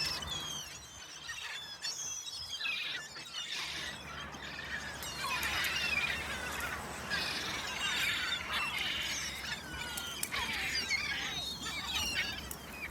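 A large flock of gulls calling over one another, many short high cries overlapping without a break as they crowd in for thrown food.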